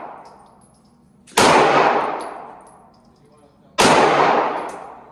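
Two gunshots about two and a half seconds apart, each with a long echoing tail, while the tail of an earlier shot fades out at the start.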